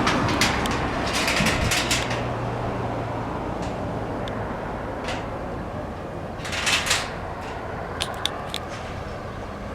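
Crinkling rustles of a house-wrap membrane sheet being handled, with a few sharp clicks near the end, over a steady low hum.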